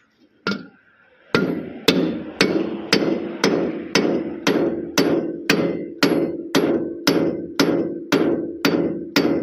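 Hammer striking a metal part of a small four-wheel tractor's rear wheel assembly in a steady series of blows, about two a second, each ringing briefly, with a single knock just before. The part is being knocked loose to take the noisy wheel apart.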